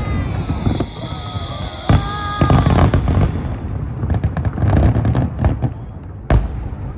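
Aerial fireworks bursting in a large display: a continuous rumble of booms and crackle, with sharp bangs about two seconds in and again near the end.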